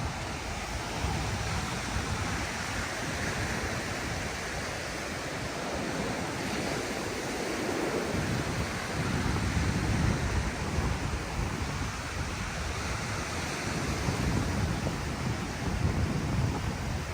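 Ocean surf washing onto a sandy beach in a steady wash of noise, with wind buffeting the microphone in low gusty rumbles.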